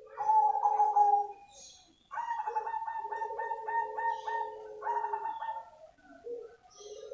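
Zebra dove of the all-black cemani variety (perkutut cemani) cooing: a short phrase at the start, then about two seconds in a longer rolling coo made of quick, evenly spaced pulses, with another phrase starting near the end.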